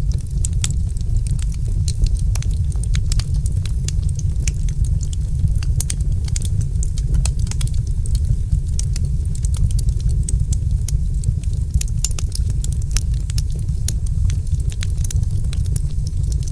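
Wood fire crackling: frequent, irregular sharp snaps and pops over a steady low rumble.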